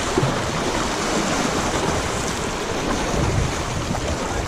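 Steady rushing noise of fast-moving river water around a kayak.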